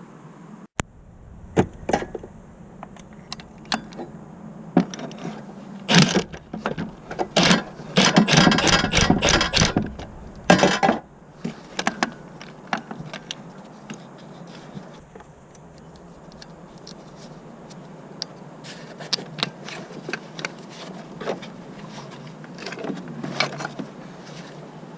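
Metal tools and parts being handled: scattered clicks, knocks and clatter, with a dense run of rapid clicking about eight to ten seconds in.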